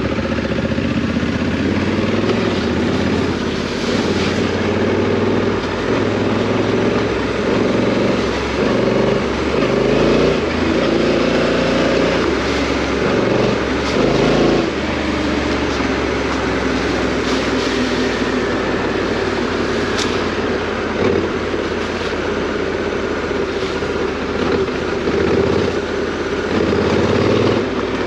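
Parallel-twin adventure motorcycle engine running while being ridden off-road, revs rising and falling with the throttle, with one sharp click about twenty seconds in.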